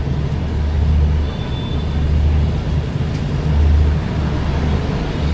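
Duronto Express passenger train running along the track: a steady low rumble that swells and eases every second or so.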